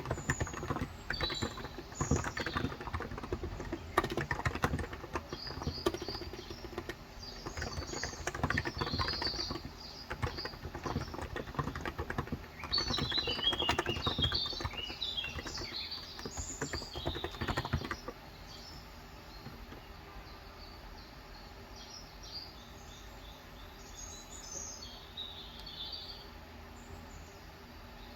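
Typing on a Cox Endeavor electrocapacitive (non-contact) 35 g tenkeyless keyboard: a fast, dense run of keystrokes that stops about two-thirds of the way in. Small birds chirp throughout, busiest in the middle and again near the end.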